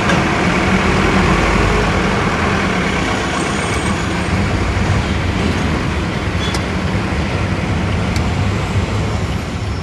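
Steady low hum of vehicle engines running, with road traffic noise around them.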